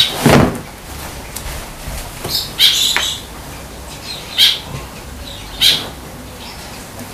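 A bird off to the side giving short, harsh calls, about four of them a second or two apart, the first with a low bump under it.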